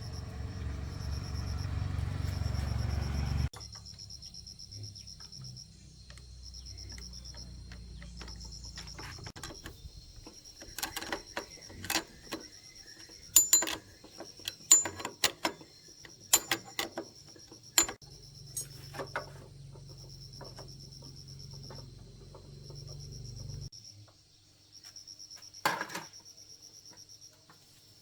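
Workshop sounds of motorbike repair: a low rumble cuts off suddenly a few seconds in, followed by a run of sharp metallic clinks and taps of tools and parts. A steady pulsing high chirp of insects runs underneath.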